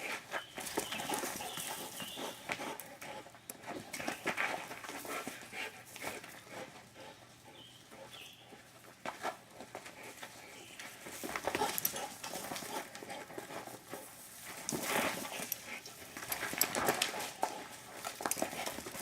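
A dog panting and scuffling as it chases a toy dragged on a string, in irregular spells that ease off around the middle and pick up again near the end.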